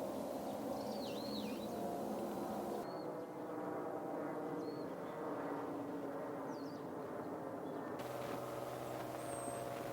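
Wild birds giving a few short, high calls, some as down-and-up swooping notes, over a steady low background hum.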